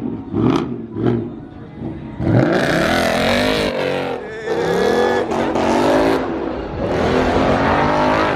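A performance car's engine being revved hard: a few quick throttle blips in the first second, then three long runs at high revs whose pitch glides up and down, over a wide hiss of noise.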